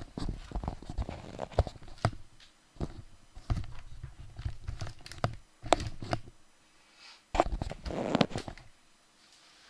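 Close handling noise: rustling, scraping and sharp knocks in several short clusters, with deep bumps.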